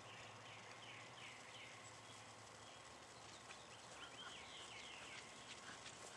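Faint birdsong over quiet outdoor background noise: a phrase of short repeated sliding chirps in the first couple of seconds, and another run of chirps about four seconds in.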